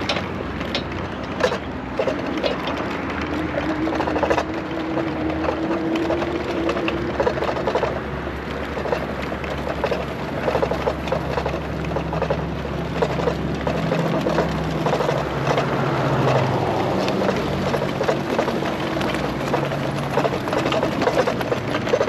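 Riding noise from a bike on the road: steady rumble and wind with frequent small clicks and rattles. A faint engine-like tone rises slowly in the first third, and another is held through the middle.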